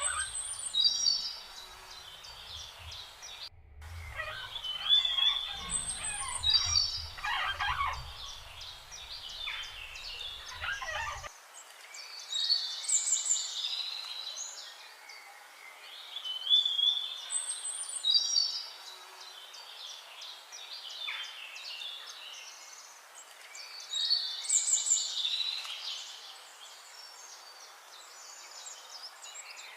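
Songbirds singing: a short phrase of high chirps and trills repeated every few seconds, with softer chirping in between.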